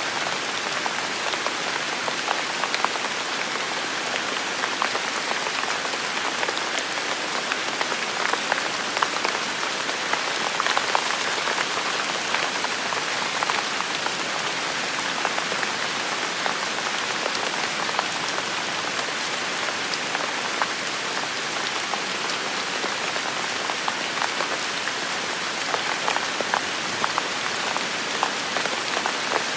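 Heavy rain falling steadily, a dense even hiss of rainfall with many sharp individual drop hits.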